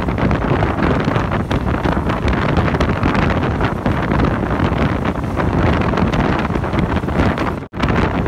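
Wind buffeting the microphone through an open train window, over the steady noise of the train running. The sound cuts out for an instant near the end.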